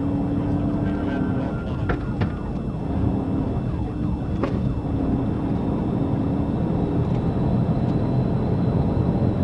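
Police cruiser driving in a pursuit, engine and road noise heard from inside the car, with a couple of sharp clicks about two seconds and four and a half seconds in.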